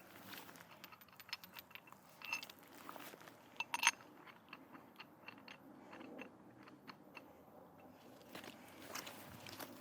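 Footsteps crunching through dry leaves and brush: a string of irregular crackles and snaps, with a louder snap about four seconds in.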